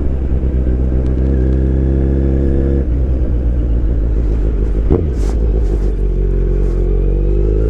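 2023 Kawasaki Z900's inline-four engine running at a steady pitch while riding, easing off about three seconds in. There is a single sharp click about five seconds in, and the engine pitch rises near the end as the bike accelerates.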